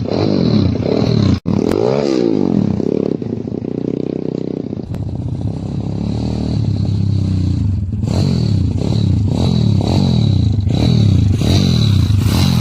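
Kayo pit bike engine revving up and down over and over, with a brief cut-out about a second and a half in and quicker, shorter revs in the second half.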